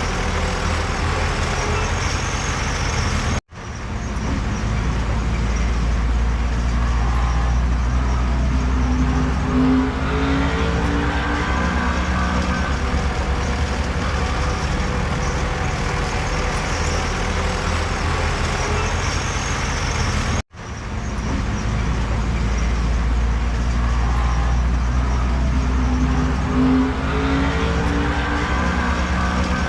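Heavy diesel earthmoving machinery running under load, its engine note rising and falling at times. The sound cuts out abruptly twice and fades back in.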